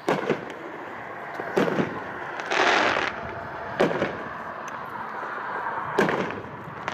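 The George Washington consumer fireworks cake from the Founding Fathers assortment, firing shot after shot. Sharp thuds come about every two seconds, with a longer rushing burst about two and a half seconds in and another near the end.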